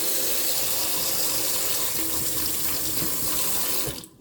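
Tap water running steadily over brassica stalks as they are rinsed clean, stopping suddenly near the end.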